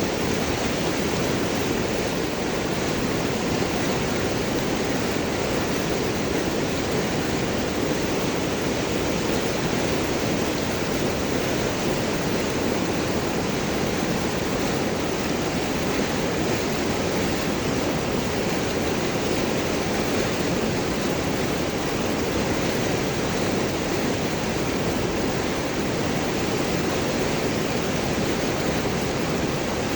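River water flowing and gurgling over and around large rocks: a steady, unbroken rush.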